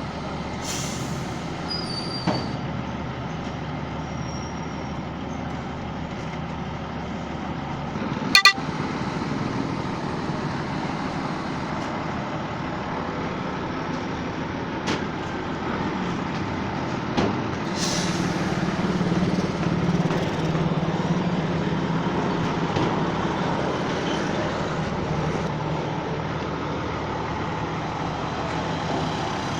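A large vehicle's engine running steadily, a little louder in the second half, with a few sharp knocks, the loudest about eight seconds in.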